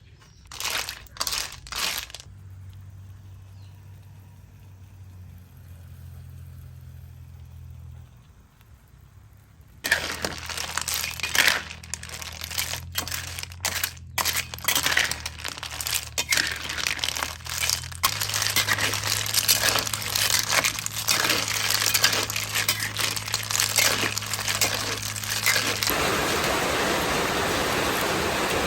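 Cooking noises in a run of short cuts: a few sharp clicks and clatters, a quieter stretch, then dense crackling and clatter from about a third of the way in, turning into an even hiss near the end like food sizzling in a pan.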